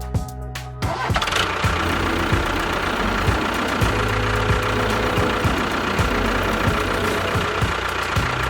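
A small motor running steadily, starting up about a second in, with background music.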